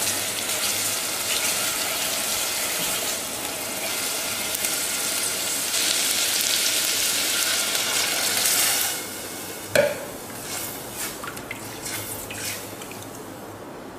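Chicken pieces frying and sizzling in oil in a stainless steel pot while being stirred with a spatula. About nine seconds in the sizzle dies down, followed by one sharp knock and a few light clicks of the spatula against the pot.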